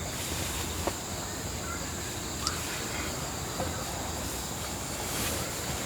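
Insects chirring in a steady, high, even drone, with a few faint clicks and short chirps.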